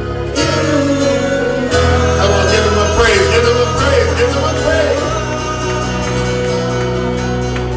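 Gospel praise-and-worship music: a band holds sustained chords over a steady bass while a voice sings a bending line without clear words through the first five seconds or so, then the instruments carry on alone.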